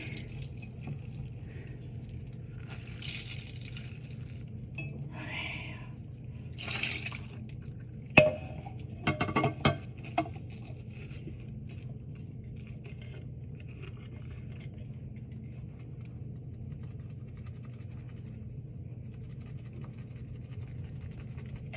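A bottle being washed by hand in a sink: a few brief swishes and splashes of water, then sharp knocks and clinks of the bottle about eight to ten seconds in, over a steady low hum.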